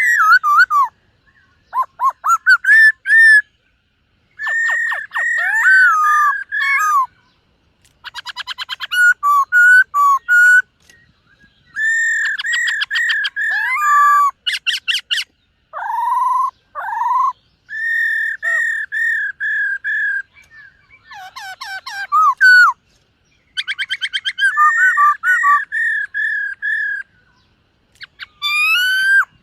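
Black-throated laughingthrush singing: loud phrases of clear whistled notes, some repeated in quick series, some sliding up or down, and fast rattling trills, broken by short pauses.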